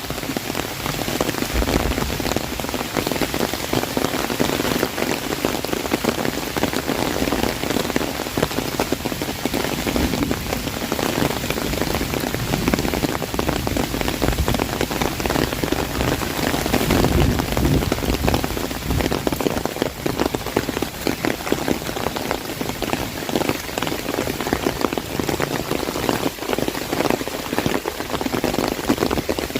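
Heavy rain drumming on an umbrella overhead, a dense steady patter of drops with the wider downpour around it.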